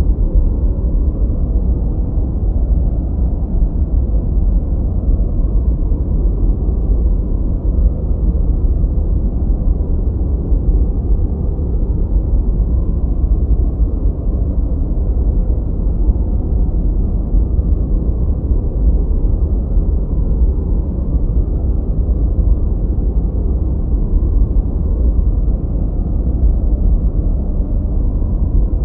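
Continuous steady noise track of the kind played for focus: an even, deep rushing sound, heavy in the bass with no high hiss, closer to brown noise than true white noise. A faint steady hum sits under it.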